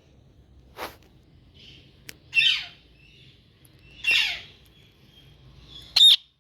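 Indian green parrot calling: two loud, harsh calls about two seconds apart, each falling in pitch, then a short shrill call near the end, the loudest of all. A fainter call comes about a second in.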